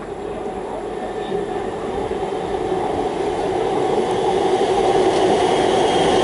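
Siemens electric suburban train running into the station, its wheel and motor noise growing steadily louder as it approaches the platform.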